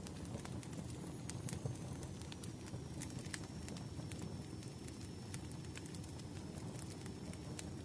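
Wood fire burning with irregular crackles and pops over a low steady rumble, and a faint high whistle held through most of it.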